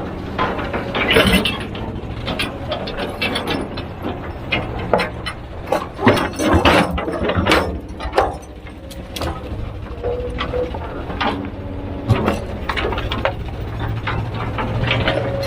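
Heavy machinery working: a diesel engine drone under a run of irregular metallic clanks and knocks.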